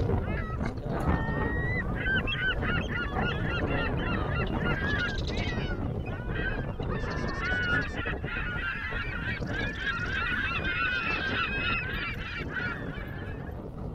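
A flock of birds giving many short, overlapping honking calls over a steady rumble of wind on the microphone. The calls die away near the end.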